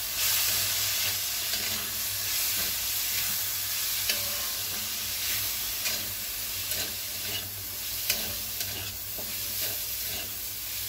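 Soya chunks and vegetables sizzling in a wok as a spatula stirs and tosses them, with a few light knocks of the spatula against the pan.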